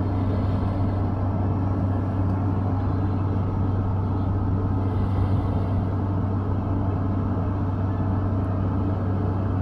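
Steady low mechanical hum of an air conditioner running on max cooling, with an even drone and no change in level.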